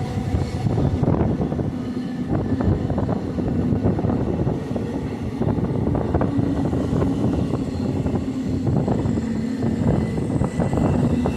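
Running noise of a moving passenger train heard from on board: a steady rumble and hum with many small clicks and rattles of the wheels and carriage on the track.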